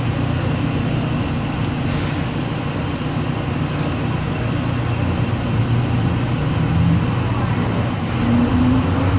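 Automated airport people-mover train running through a tunnel, heard from inside the car: a steady rumble with a low motor hum, and a rising whine about eight seconds in.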